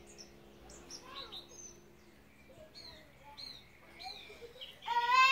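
Small birds chirping, many short quick calls that fall in pitch. Near the end a much louder high-pitched wavering tone with a rising edge cuts in.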